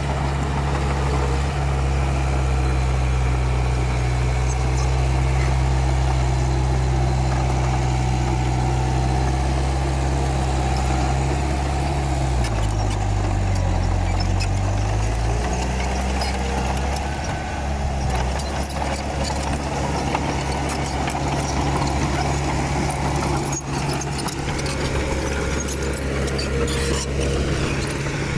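Komatsu D31P bulldozer's diesel engine running steadily. Its pitch dips briefly about halfway through, as if under load, then comes back up. Scattered clicks and knocks are heard in the second half.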